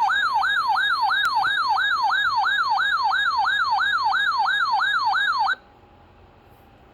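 Electronic emergency alert tone, a siren-like warble sweeping up and down about three times a second, cutting off abruptly near the end; it signals a severe thunderstorm warning.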